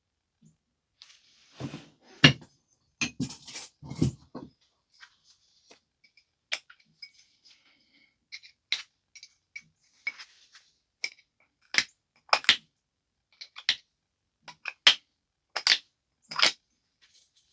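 Flintknapping on a stone biface: a run of sharp clicks and snaps as flakes are worked off its edges, with a few heavier knocks and handling sounds between about two and four and a half seconds in.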